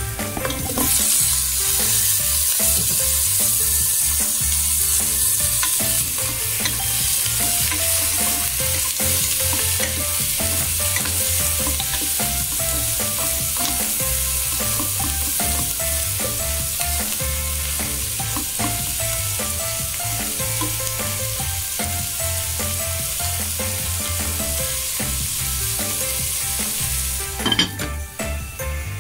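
Diced onion, ginger and garlic, then pieces of marinated mackerel, sizzling steadily in hot oil in a pan. Near the end there is a knock as the pan's lid goes on, and the sizzle stops.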